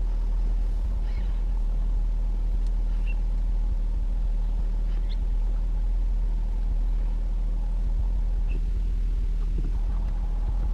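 Steady low hum of an idling vehicle engine, with a few faint, short bird chirps.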